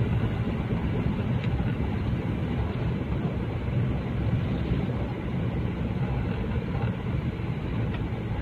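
Steady vehicle running noise on the move: a continuous low engine and road rumble with an even hiss above it.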